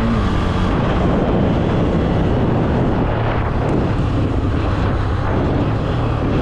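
Honda CB300F single-cylinder engine running at a steady speed while riding, its low hum mixed with heavy wind rush over the microphone.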